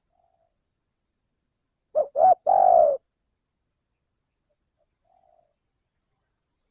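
Male spotted dove cooing its lure call, one phrase about two seconds in: two short notes followed by a longer held note. There is a faint soft coo a few seconds later.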